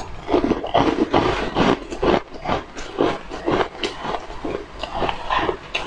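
Crunching bites and chewing of a crisp white snowflake-shaped snack, a quick run of crackly crunches at about two to three a second.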